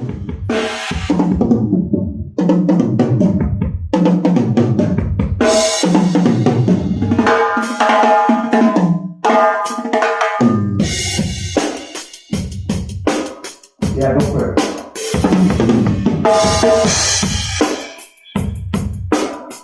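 A drum kit playing with kick, snare, rimshots and cymbals, together with other pitched instruments. The sound is chopped into short segments by several abrupt cuts.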